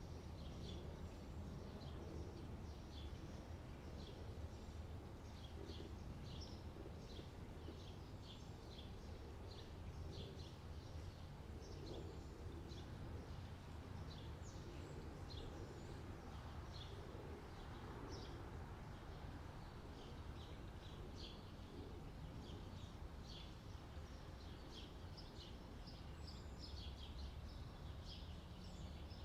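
Many small birds chirping, with quick high chirps and twitters coming thick and fast, over a steady low background rumble.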